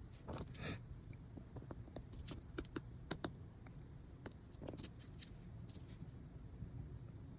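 Faint, irregular light clicks, taps and brief scrapes of small parts and tools being handled and set down on a workbench.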